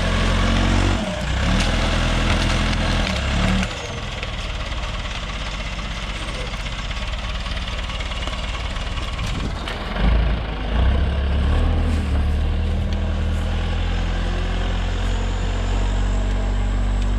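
JCB backhoe's diesel engine working under load as it pushes brush onto a burning pile, the engine note rising and falling. It drops back about four seconds in and revs up again about ten seconds in.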